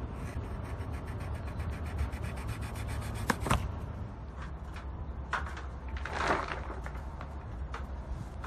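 Plastic shrink wrap on a boat being cut with a knife and pulled away: crackling and rustling plastic, with a fast run of fine ticks over the first few seconds, two sharp snaps a little after three seconds in, and a louder rustle about six seconds in.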